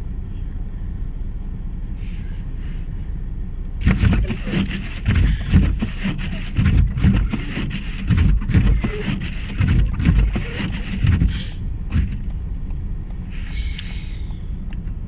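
Steady low rumble of a car driving, heard from inside the cabin. From about four to twelve seconds in, a run of irregular loud knocks and rustles comes over it.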